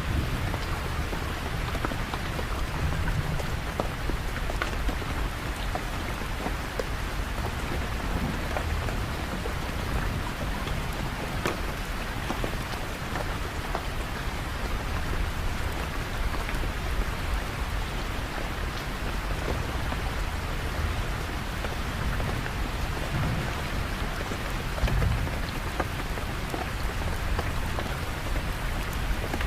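Steady rain falling, with scattered individual drops and a low rumble underneath that swells briefly near the end.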